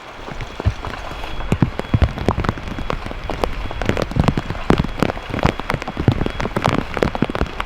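Rain falling, with many irregular drop strikes close by and a steady patter underneath.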